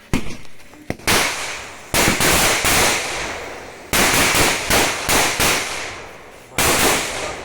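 A string of firecrackers (a cracker garland) going off in rapid crackling volleys, in several bursts with short lulls between them, each burst dying away after it.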